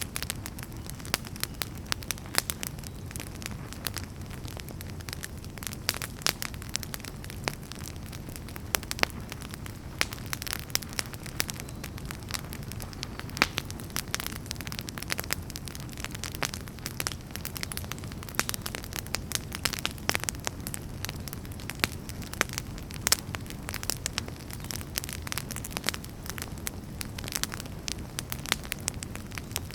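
Fire crackling in a fireplace: frequent, irregular sharp snaps and pops over a steady low noise from the flames.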